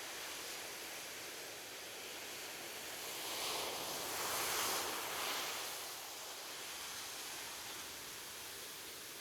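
Ocean waves on a beach: a steady wash of surf, with one wave swelling and breaking about midway, then receding.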